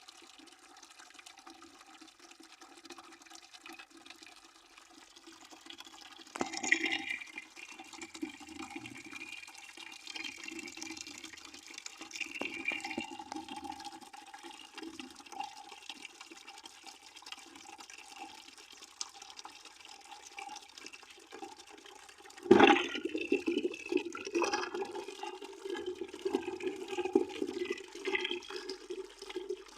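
A stream of water pouring into a partly filled bucket, splashing steadily with a hollow ring. It swells suddenly louder about six seconds in, and more so near two-thirds of the way through, staying louder after that.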